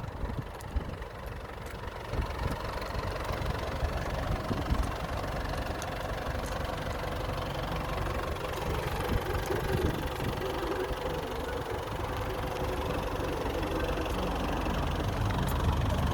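Truck engine running steadily with a low rumble, growing louder near the end.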